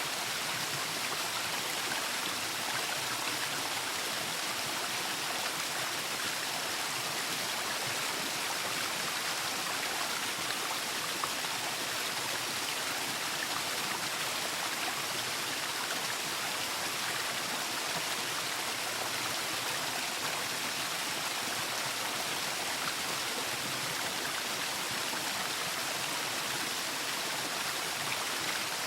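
Waterfall: water falling and rushing in a steady, unbroken hiss, strongest in the upper range.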